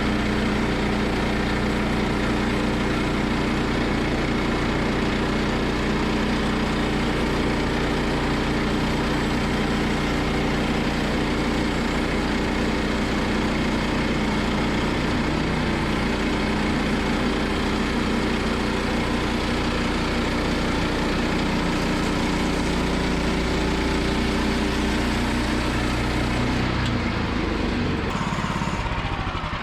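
Woodland Mills portable bandsaw mill's gasoline engine running steadily at speed, its blade cutting through a large wet log. The engine note shifts near the end.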